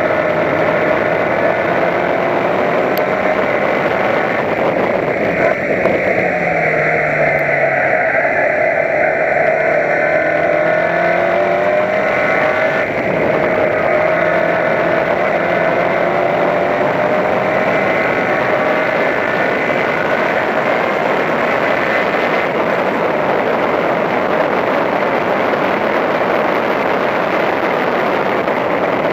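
Toyota Corolla Levin race car's engine running hard at high revs on track, its pitch dropping and climbing as the car brakes and accelerates, with wind and road noise.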